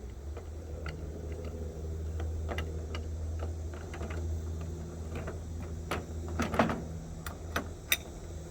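Irregular metallic clicks and clinks of tools and plumbing fittings being handled and tightened, growing more frequent and louder in the second half, over a steady low hum.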